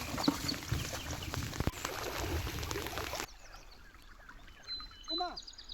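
Outdoor ambience with scattered clicks and splashing-like noise and a few short high chirps. About three seconds in it cuts off abruptly to a much quieter stretch with a few faint chirps and a short falling call.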